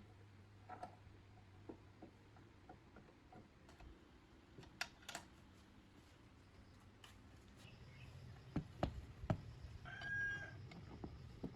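Faint workshop handling sounds: scattered light clicks and taps of small parts or tools, a few sharper knocks about nine seconds in, and a short squeak about ten seconds in.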